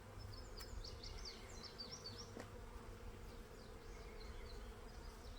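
Honeybees buzzing around the hive, a faint steady hum, with quick high chirps for the first couple of seconds and fainter ones later.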